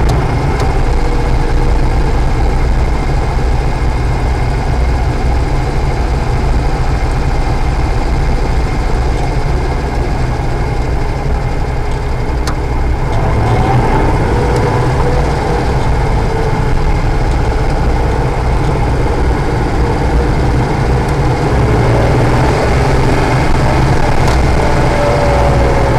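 Honda/Acura NSX's V6 engine running with a heavy low rumble and road and wind noise, heard from inside the car; the engine pitch rises about halfway through and falls again near the end.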